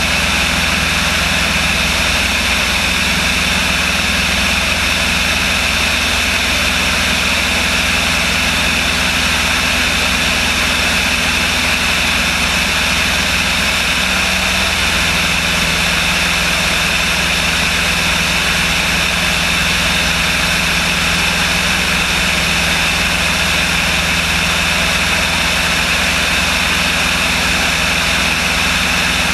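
Steady drone of a light aircraft's piston engine and propeller running at constant power, with no change in pitch or level.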